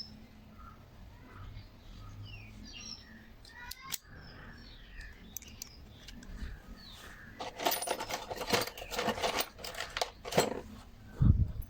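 Small metal starter-motor parts being handled: a run of rapid metallic clicks and scrapes in the second half, then a low thump near the end. Birds chirp faintly in the background.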